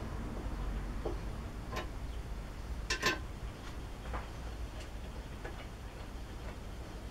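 Irregular light clicks and taps of lathe parts being handled and fitted together, about nine in all, the loudest a quick double click about three seconds in.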